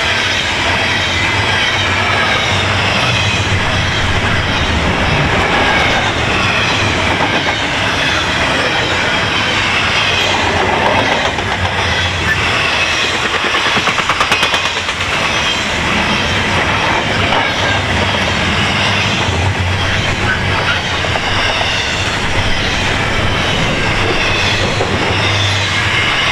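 Double-stack intermodal freight train's container well cars rolling past at speed: a steady rumble and rush of steel wheels on rail, with a brief run of rapid clicking about halfway through.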